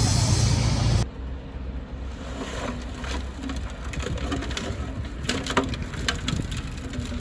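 Heavy machinery engine running loudly, cut off abruptly about a second in. Then a low engine rumble with scattered crackling and snapping, like brush and branches being crushed.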